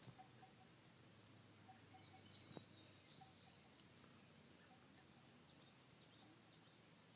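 Near silence with faint, high bird chirps in the background, thickest about two to three seconds in and again near the end.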